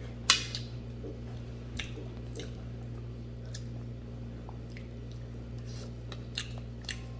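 A person chewing and eating close to the microphone: wet mouth sounds and scattered sharp clicks, the loudest about a third of a second in, over a steady low hum.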